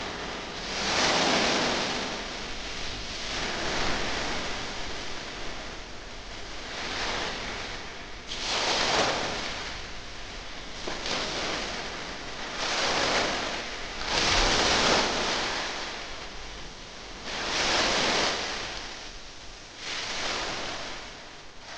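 Ocean surf: waves breaking and washing up, the rushing noise swelling and fading every few seconds.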